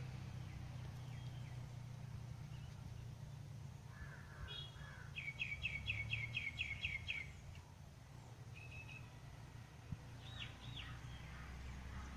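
A songbird singing a quick trill of about nine falling notes, lasting about two seconds, with a few scattered short chirps before and after it, over a steady low background rumble.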